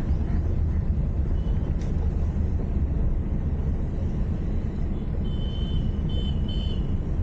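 Steady low rumble of a car driving: road and engine noise. About five seconds in, a short high beep repeats three times.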